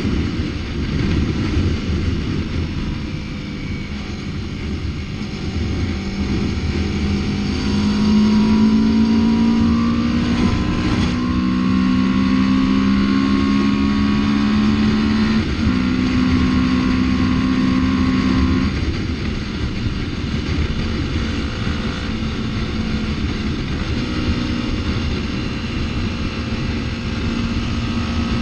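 Yamaha MT-03 motorcycle engine running under way, with heavy wind rush on the microphone; the engine note shifts in pitch a few times, as with throttle and gear changes.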